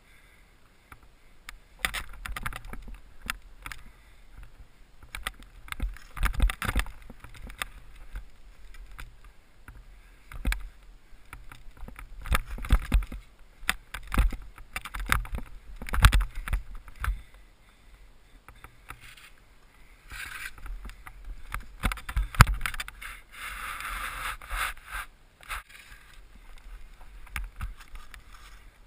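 Skis swishing and scraping through powder snow in a series of irregular surges, with wind buffeting the camera microphone.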